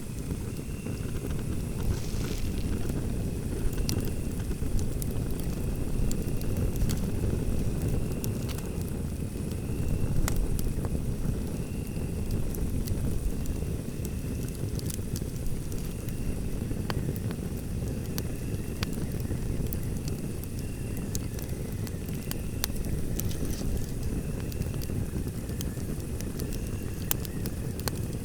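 Wood fire in a fireplace burning with a steady low roar and many small, irregular crackles and pops.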